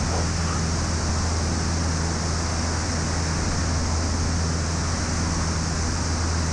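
Piper Seneca PA-34's twin piston engines and propellers droning steadily in the climb after takeoff, heard inside the cabin.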